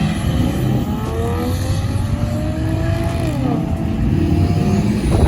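A car accelerating away, its engine pitch rising steadily and then dropping sharply at a gear change about three seconds in before climbing again, with wind buffeting the microphone.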